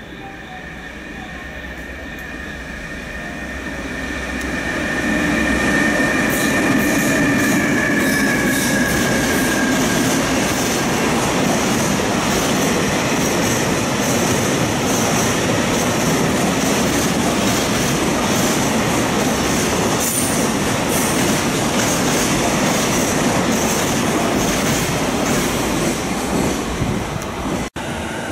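EH500 electric locomotive passing close by at the head of a long container freight train: a high-pitched squeal as it approaches, growing louder over the first few seconds, then the steady loud rumble and rhythmic clatter of the container wagons rolling past on the rails. The sound cuts off abruptly near the end.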